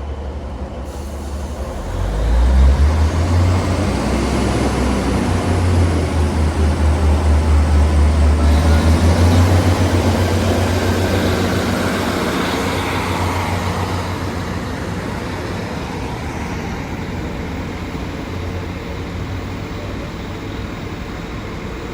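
Class 156 Sprinter diesel multiple unit pulling away from the platform. Its diesel engines swell to a strong low throb about two seconds in, with a rhythmic pulsing a few seconds later, then the sound slowly fades as the train draws away.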